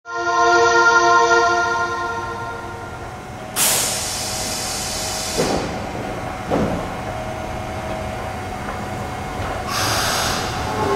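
Osaka Subway 70 series linear-motor train at a platform: a steady electric whine of several tones for the first few seconds, then a loud burst of compressed-air hiss about three and a half seconds in. Two short low falling sounds follow, and a second, shorter air hiss comes near the end.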